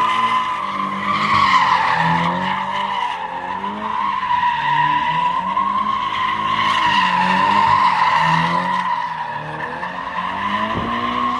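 Car tyres squealing in one long continuous screech while the engine revs rise and fall underneath: a car spinning its wheels and sliding. The squeal swells louder about a second and a half in and again near eight seconds.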